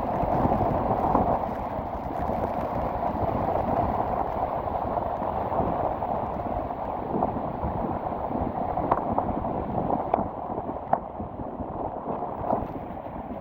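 Heavy sea waves surging and breaking in a strong wind, with gusts buffeting the microphone as a steady low rumble. A few sharp ticks stand out in the second half.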